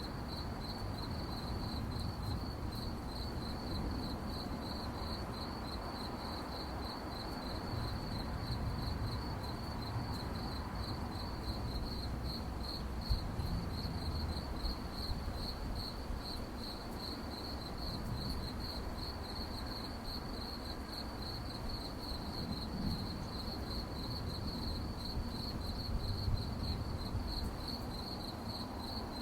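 Crickets chirping at night in a steady, rapid, even pulse that never breaks, over a low background rumble.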